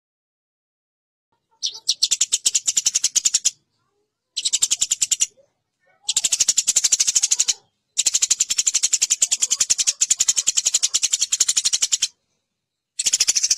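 Eurasian tree sparrows fighting: rapid, harsh chattering of short high chirps, about a dozen a second, in bursts of one to four seconds with brief pauses between.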